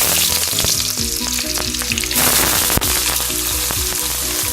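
Onions dropped into hot oil in a kadai, sizzling loudly the instant they go in. The sizzle grows stronger again about two seconds in, and there is a single sharp click a little later.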